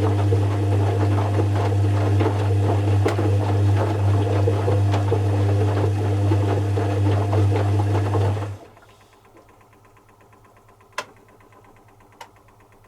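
Zanussi FC1000 compact washing machine's motor turning the drum with a steady hum and rattle, then cutting out abruptly about eight and a half seconds in as the drum stops between turns; two sharp clicks follow in the pause.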